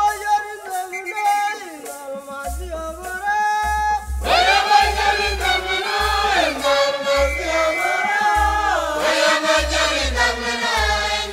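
Music: a choir singing together over deep, repeated bass pulses, growing fuller about four seconds in.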